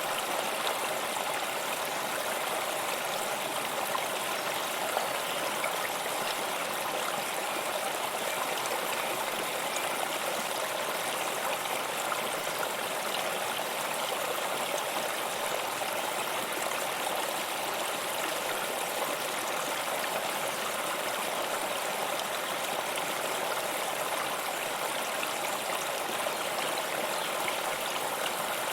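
Steady rushing and burbling of flowing water, like a stream running over stones.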